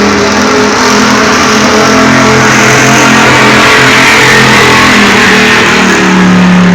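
Pulling truck's engine running hard at high revs, loud and steady, as it drags the weight sled down the track.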